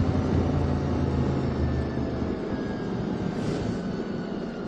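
QJ Motor SVT650X motorcycle engine running through an Arrow slip-on exhaust, with a steady low note for about two seconds and then softening, over wind and road noise.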